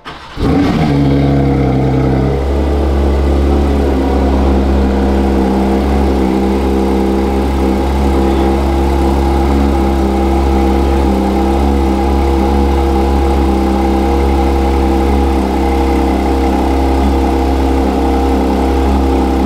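Porsche 992 GT3 RS's 4.0-litre naturally aspirated flat-six starting: it catches about half a second in with a quick rising flare, then drops about two seconds in to a steady, loud idle.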